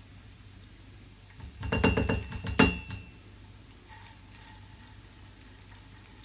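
Dishes and cutlery clinking: a quick run of clatters starting about a second and a half in, ending in one louder clink that rings briefly.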